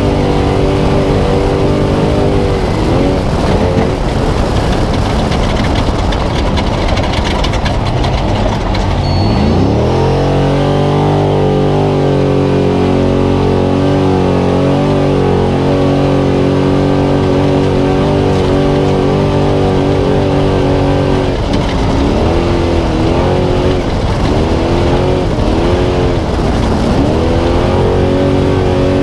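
Spec Trophy Truck's V8 engine under hard throttle at racing speed, heard from inside the cab, with rough, constant road and wind noise. About nine seconds in the revs drop sharply and climb back up. Toward the end the driver lifts off and gets back on the throttle several times in quick succession.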